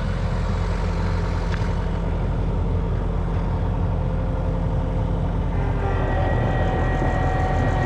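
Engine running steadily at a low, even speed. About five and a half seconds in, a steady whine joins it.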